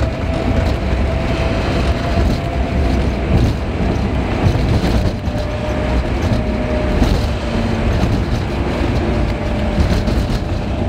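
Car driving, heard from a dash cam inside the car: steady road and engine rumble with frequent small knocks from bumps. The recording plays at triple speed, which makes the rumble faster and higher.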